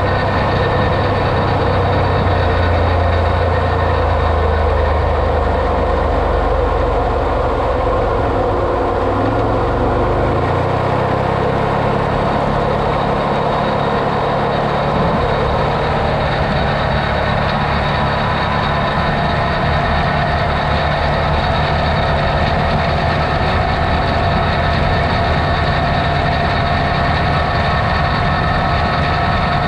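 Off-road vehicle engine running steadily at a low pitch, then rising in pitch about ten seconds in as it speeds up, and holding the higher pitch after that.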